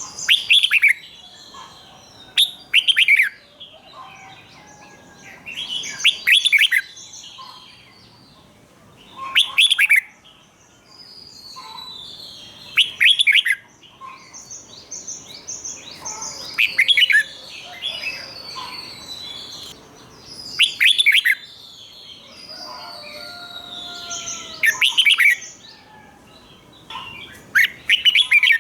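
Red-whiskered bulbul singing loud, doubled song phrases about every three to four seconds, with softer chirps and twitters between them.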